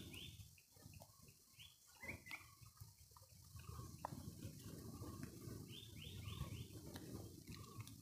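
Faint outdoor quiet with a small bird calling: a quick run of short, high chirps at the start and another about six seconds in, over a low, uneven rumble.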